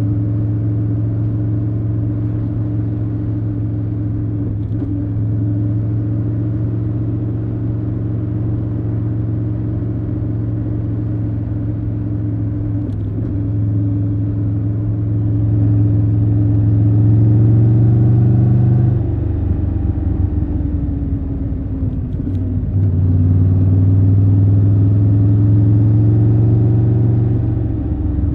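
Triumph Tiger 1200 Rally Pro's three-cylinder engine running steadily under way. About two-thirds through, the engine note drops for a few seconds as the throttle closes, then picks up again.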